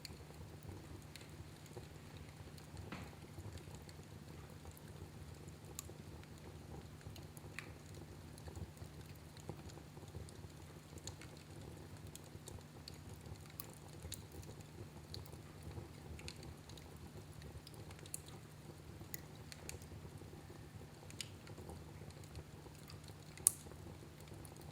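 Fire burning in a fireplace, crackling with scattered small pops and one sharper pop near the end, over a low steady hum.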